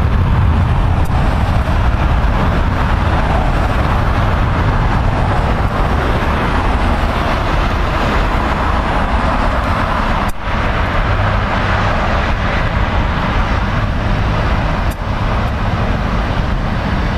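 Jet airliner engines at takeoff power: a loud, steady rushing noise over a low rumble that swells through the middle and eases toward the end.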